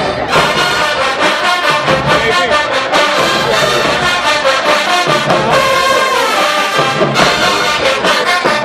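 HBCU marching band playing loudly, its brass section of trombones and trumpets carrying the tune over drums.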